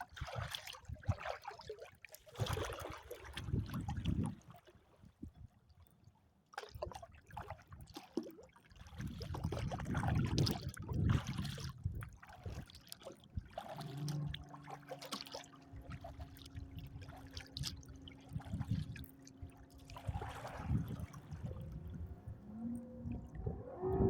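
Water splashing and trickling around a kayak as it is paddled, with wind gusting on the microphone. About halfway through, a steady low hum made of a few held tones comes in and carries on.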